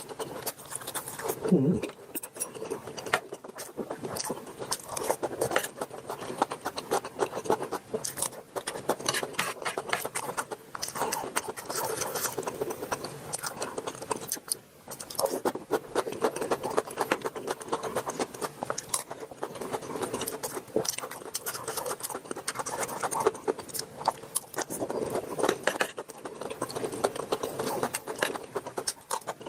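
Kitchen utensils scraping and clinking against cookware, in dense, irregular strokes.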